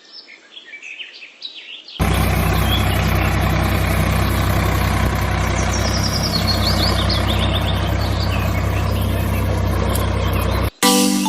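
A steady engine drone like an idling tractor starts suddenly about two seconds in and cuts off abruptly near the end. Birds chirp throughout, faintly alone at first and then over the engine.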